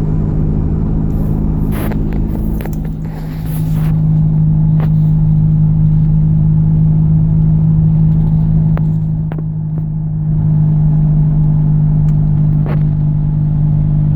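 1998 Chevy S-10 Blazer running with a steady low droning hum that swells and eases twice, with a few faint clicks over it. This is the owner's unexplained new noise, which he hopes is only road noise; the passenger CV axle has recently been replaced.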